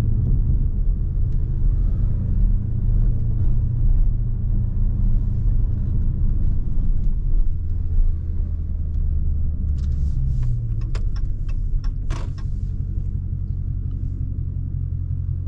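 Dodge Scat Pack's 6.4-litre HEMI V8, mid muffler deleted, running at low revs with a steady deep drone, heard from inside the cabin. The drone drops in pitch about halfway through, and a few sharp clicks come near the end.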